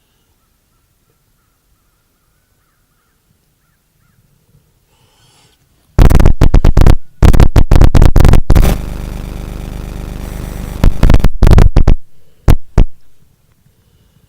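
Harsh, distorted buzzing and crackling recorded by the camera, loud enough to clip. It starts abruptly about six seconds in as rapid pulses, settles into a steadier buzz for about two seconds, then breaks into pulses again and stops with a few last bursts. This is the strange sound said to be picked up near a crystal placed in Serpent Mound.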